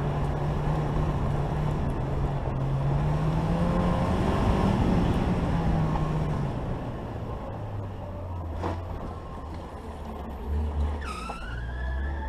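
Kia Sportage engine heard from inside the car on a gravel rally stage, revving up to a peak about four seconds in, then easing off as the car slows, with gravel and road rumble underneath. A steady high tone comes in near the end.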